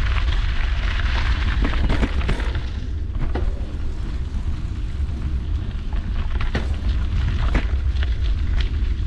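Wind buffeting an action camera's microphone while mountain biking, a constant low rumble, with tyre noise on the trail and scattered sharp clicks and rattles from the bike. The hissier tyre and wind noise eases about three seconds in.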